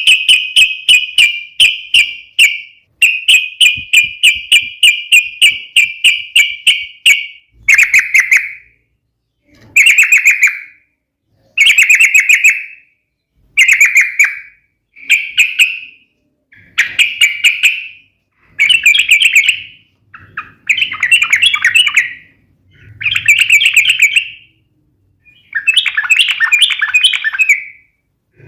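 Yellow-vented bulbul (trucukan) singing loudly. It opens with a fast run of sharp repeated notes, about four a second, then breaks into short bubbly phrases of about a second each, repeated every two seconds or so.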